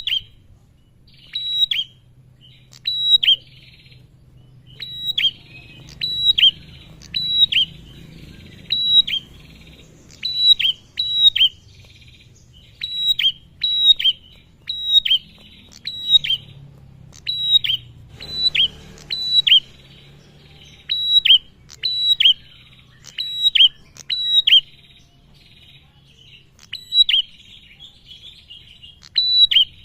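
Male prenjak (prinia) singing its lively lure song: sharp, high, downward-sweeping chip notes, often in quick twos or threes, repeated every second or two over a buzzy chatter.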